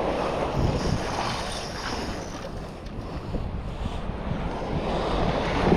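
Wind buffeting the microphone over the wash of shallow sea water.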